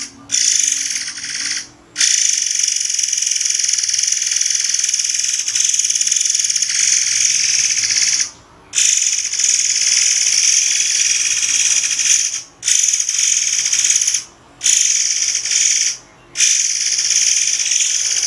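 Murai air singing a rapid, shrill, high-pitched trill in long unbroken phrases. It is cut by brief pauses of about half a second, which come more often in the second half.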